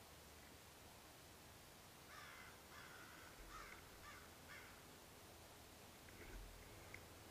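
Faint bird calls over near silence: a run of about five calls roughly half a second apart, then two shorter, weaker ones near the end.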